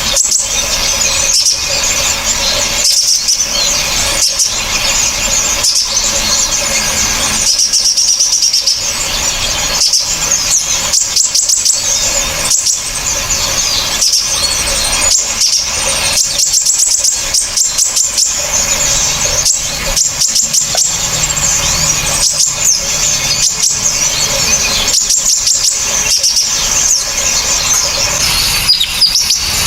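Loud, continuous, sharp high-pitched chattering and rapid trilling of several small songbirds layered together, a bird-song training mix for teaching cage birds new songs.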